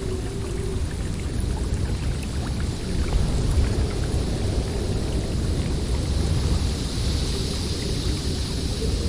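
Snowstorm wind blowing steadily in a low, buffeting rumble, with a higher hiss of wind swelling near the end.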